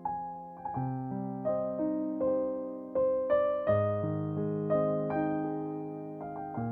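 Soft background piano music: gentle, slow chords and single notes struck and left to ring and fade.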